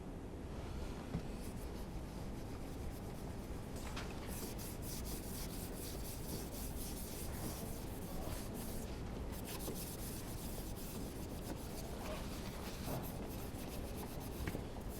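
Scratchy rubbing in quick repeated strokes, densest from about four to nine seconds in, with a few sharper clicks.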